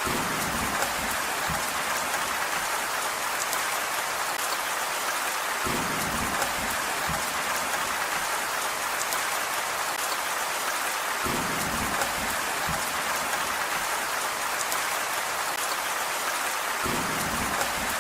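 Steady rain falling, with a short lower, heavier patch of drops recurring about every five and a half seconds.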